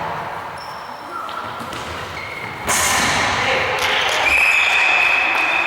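Tchoukball play echoing in a sports hall: the ball bouncing and thudding, with players' voices. About two and a half seconds in the sound jumps sharply louder and stays loud.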